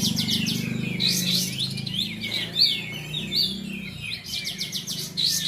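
Several caged kapas tembak songbirds singing at once in competition: dense, overlapping fast chirps and trills. A steady low hum runs underneath and fades about four seconds in.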